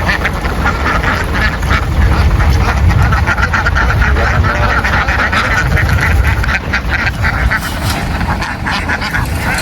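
A large crowded flock of domestic ducks quacking continuously, many overlapping calls at once, over a steady low rumble.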